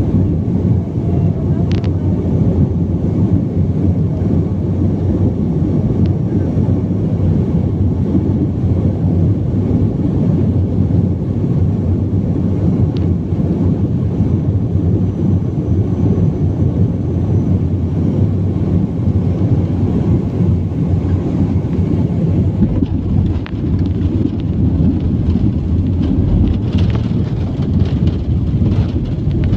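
Steady, loud low rumble inside the cabin of a BAe 146 airliner landing, from its four turbofan engines and the airflow. A few faint clicks and rattles come through it, more of them near the end.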